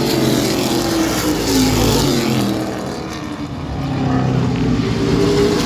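Race trucks' engines running at speed on the track, their pitch sliding down and the sound easing about three seconds in, then building again as more trucks come by.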